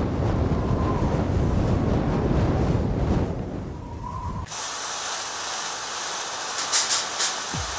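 Heavy rain: a deep rumbling rush for about four and a half seconds, then, after an abrupt cut, a steady bright hiss of downpour with a couple of louder swells near the end.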